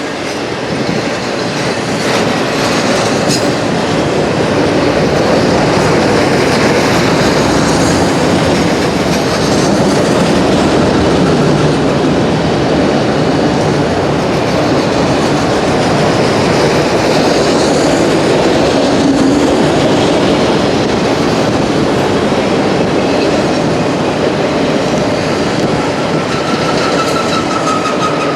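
CSX autorack freight train rolling past: a steady loud rumble and clatter of steel wheels on the rails. Near the end a thin wheel squeal rises over it.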